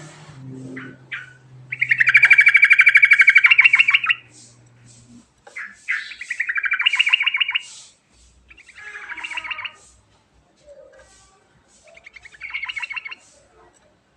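Yellow-vented bulbul (trucukan) singing in four bursts of fast, rattling chattering notes, the first and longest lasting about two seconds, with short single notes between the bursts. A faint low hum sits under the first few seconds.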